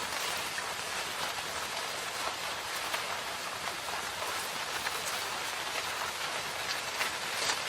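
Steady rain falling in a forest: an even hiss with many individual drops ticking through it.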